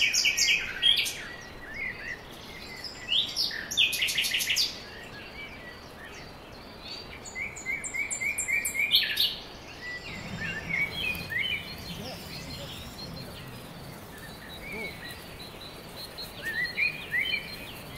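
Small birds singing and calling: bursts of rapid high chirps and trills, loudest in the first half and fainter later, over a steady outdoor hiss.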